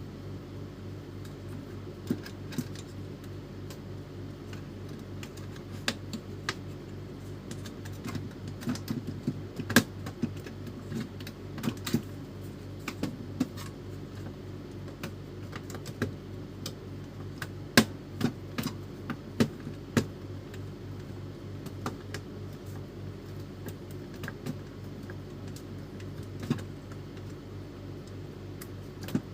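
Scattered, irregular clicks and clacks of small hard parts being handled during a printer repair, over a steady low hum.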